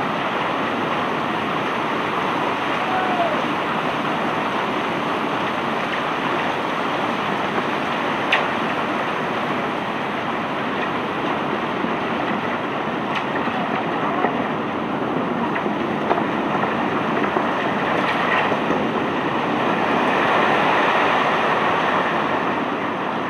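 Steady noise of machinery unloading cobblestones from a barge, with a few sharp clinks scattered through it.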